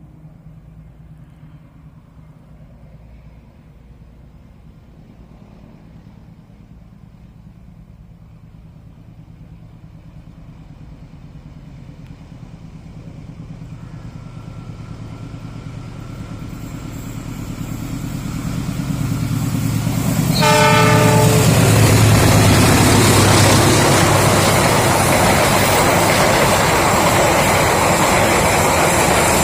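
Lodaya passenger train approaching behind a diesel locomotive, its engine growing steadily louder. The horn sounds briefly about two-thirds of the way in, and then the locomotive and carriages pass close by, loud and steady.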